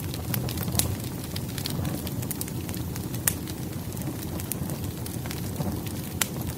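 Wood fire crackling, with scattered sharp pops over a steady low rumble of burning logs; the loudest pops come about three seconds in and again near the end.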